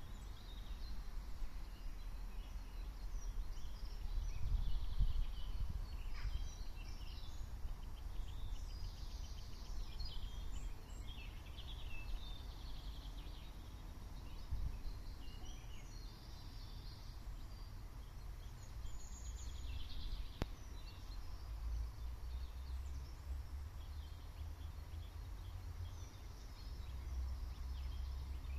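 Small birds chirping and singing on and off, over a low, uneven rumble.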